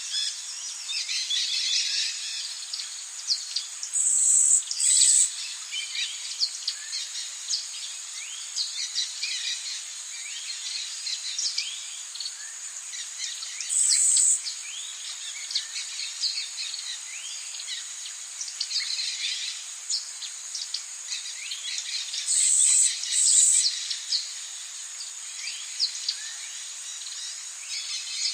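Rainforest ambience: many birds chirping and calling over a steady high-pitched insect drone. Short, louder buzzes break in three times, about 4, 14 and 23 seconds in.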